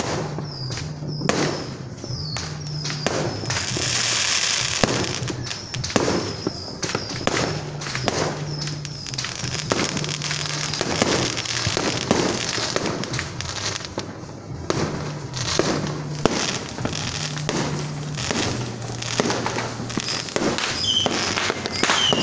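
Aerial fireworks going off in rapid succession: a continuous run of sharp bangs and pops, a few a second.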